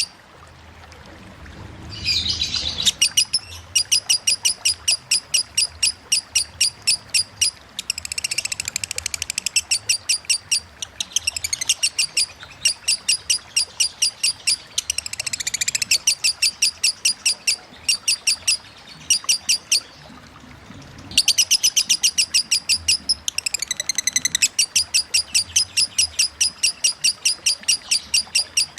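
Lovebird singing in the rapid 'ngetik' style: long runs of sharp, high, evenly repeated chips, about four a second, broken several times by short bursts of denser twittering chatter.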